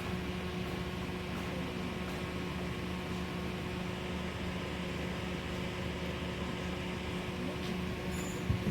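Steady mechanical hum with a constant low tone over a hiss, and a short thump near the end.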